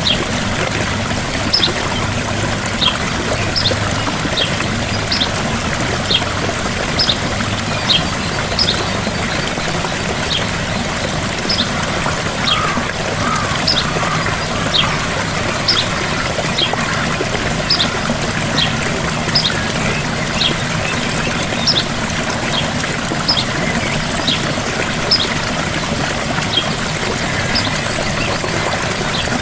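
Gentle waterfall: water falling and splashing as a steady rush. Over it, short high chirps repeat a little more than once a second.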